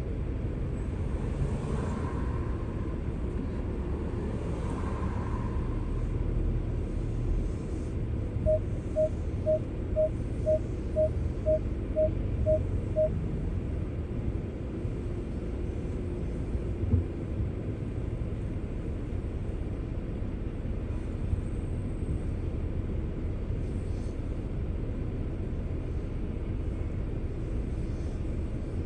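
Steady low road and engine rumble of a car on the move. About nine seconds in comes a run of about ten short, evenly spaced electronic beeps, about two a second, and a single short knock follows a few seconds later.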